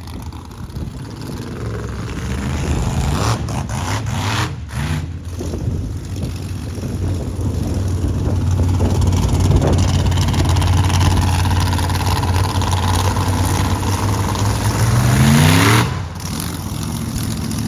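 Monster truck engine running hard, building in loudness, then revving up sharply in pitch near the end before dropping off suddenly.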